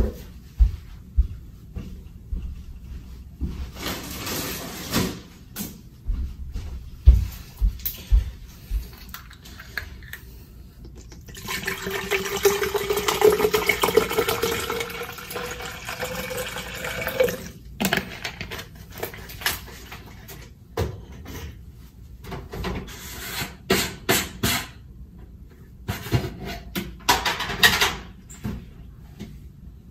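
Water running into a bottle for about six seconds, its pitch rising as the bottle fills, between scattered clicks and knocks of containers being handled.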